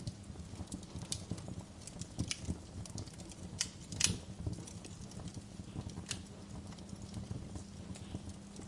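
Wood fire in a fireplace crackling, with scattered sharp pops over a low, steady rumble of the burning logs; the loudest pop comes about four seconds in.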